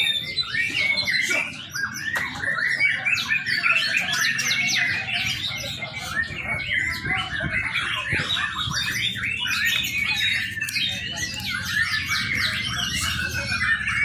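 Young white-rumped shama singing: a rapid, unbroken stream of varied chirps and twitters.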